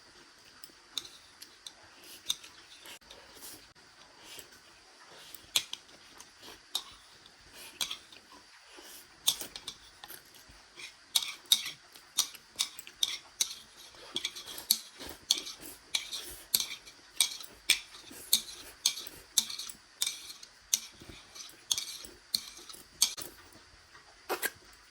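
Eating utensils clinking and tapping against a bowl: scattered clicks at first, then a steady run of taps about one or two a second through the second half.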